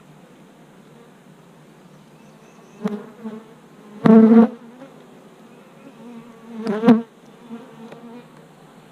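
Honeybees swarming around an open hive, a steady buzz that swells loudly three times, loudest about four seconds in.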